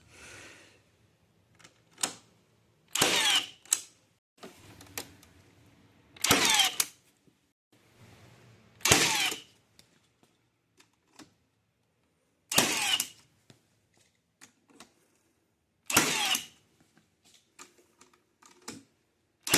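Five short bursts of power-tool noise, roughly every three seconds, with faint knocks and clatter between them.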